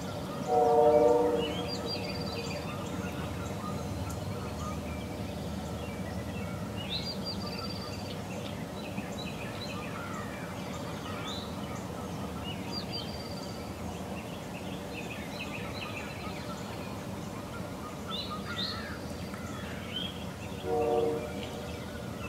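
Wild turkey gobbling, loud, about half a second in and again near the end, with songbirds chirping throughout.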